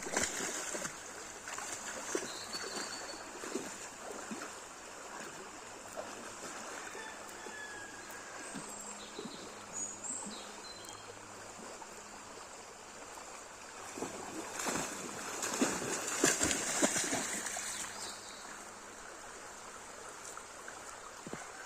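River water flowing steadily, with a louder stretch of splashing about fifteen seconds in.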